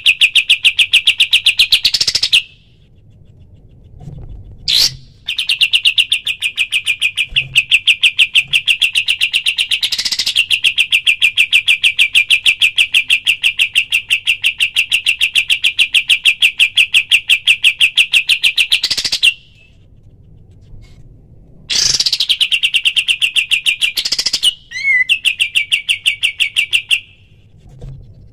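Kapas tembak songbird singing its rapid-fire 'tembakan' song: long, fast trills of sharp repeated notes that stop and restart after short pauses, the longest lasting about fourteen seconds.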